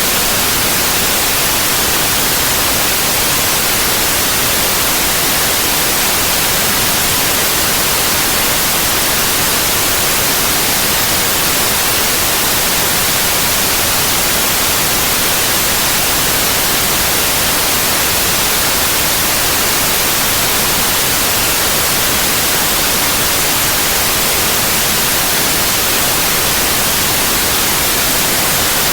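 Steady, loud synthetic white noise: an even hiss across the whole range, without change or interruption.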